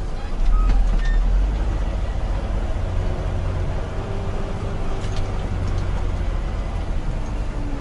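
Concrete mixer truck running on the road: a steady, deep engine and road rumble that swells about half a second in.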